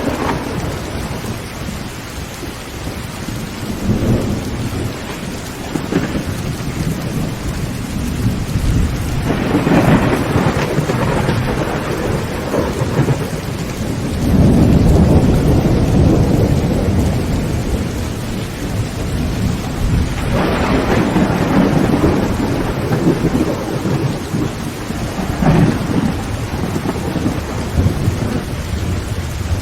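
Heavy rain falling steadily on a tin tent roof, with several rolls of thunder rumbling over it; the loudest and longest roll comes about halfway through.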